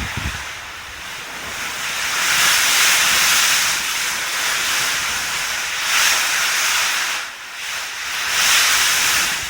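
Typhoon-force wind rushing, a loud high noise that swells and eases in three gusts.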